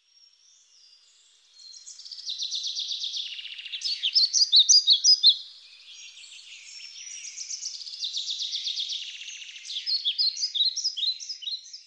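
A songbird singing two long phrases, each a fast trill that runs into a string of louder, quick separate notes.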